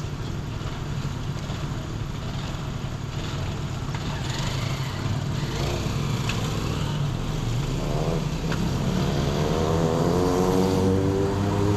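Car driving on town streets: steady engine and road rumble. Near the end an engine's pitch climbs steadily as it accelerates.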